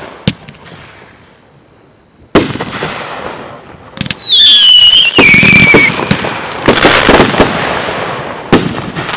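Aerial fireworks bursting overhead: a sharp bang at the start, then after a short lull a run of booming bursts with crackle. About four seconds in, a whistle falls in pitch over nearly two seconds among the bursts.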